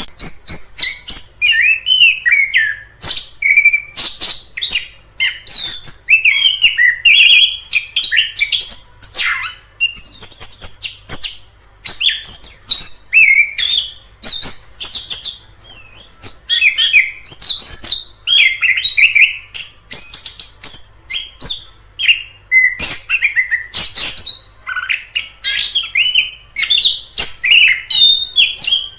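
Chestnut-capped thrush (anis kembang) singing a continuous, varied song of quick whistled and warbled phrases mixed with sharp short notes, with hardly a pause.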